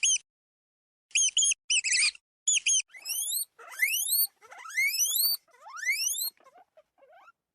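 Animal calls: quick runs of short, high squeaky chirps for the first few seconds, then a series of about five calls that each slide steeply upward in pitch, fading out near the end.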